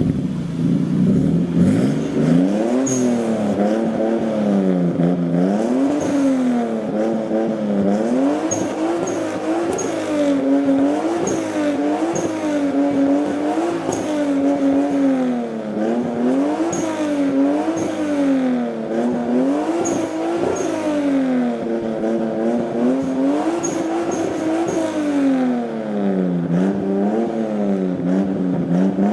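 Toyota Supra MK4's twin-turbo 2JZ-GTE inline-six running at high revs, its pitch swinging down and up every second or two without ever dropping to idle.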